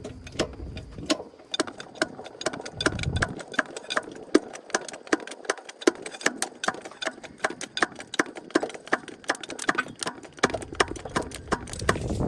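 A steady run of sharp clicks, about three to four a second, from hand-tool work on the truck wheel. A low rumbling comes in near the end.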